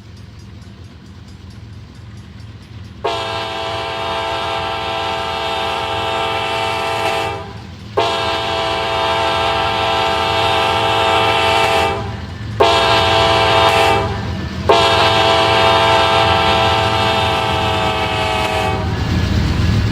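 Diesel locomotive horn, CSX 1982's, sounding a multi-note chord in four blasts, long, long, short, long: the grade-crossing signal. A steady low rumble from the train runs under it.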